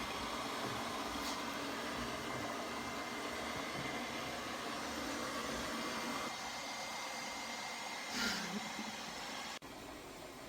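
Robot vacuum cleaner running, a steady whir with a faint high whine. About eight seconds in a brief louder sound falls in pitch, and a second or so later the sound drops abruptly to a quieter steady hiss.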